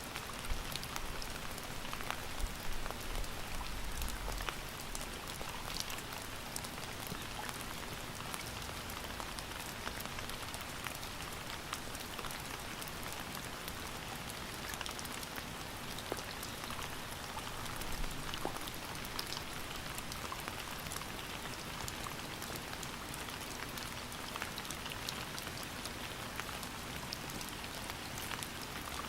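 Steady rain falling, an even hiss with many separate drops ticking on a hard surface. A faint low rumble swells briefly a few seconds in.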